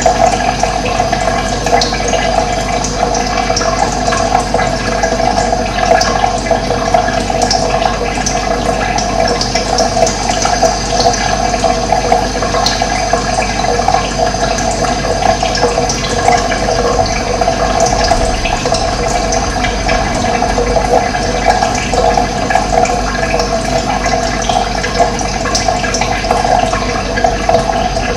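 Running water flowing steadily, a continuous splashing rush with small bright droplet sounds scattered through it.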